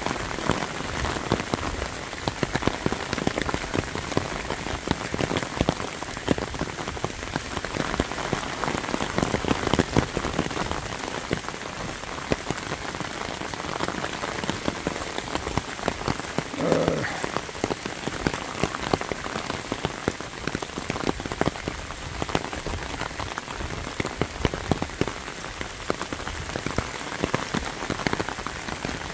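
Rain drumming on an umbrella canopy just above the microphone: a dense, steady patter of drops.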